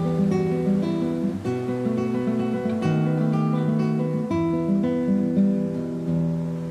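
Background music: an acoustic guitar picking notes and changing chords.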